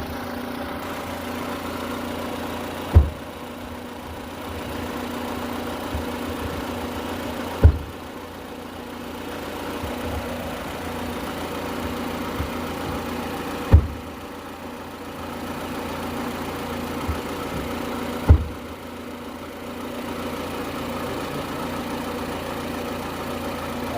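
A 2003 Honda Civic's engine idles steadily while its left door is slammed four times, four loud bangs about five seconds apart. The slams are meant to jar trapped air bubbles out of the cooling system as it is bled.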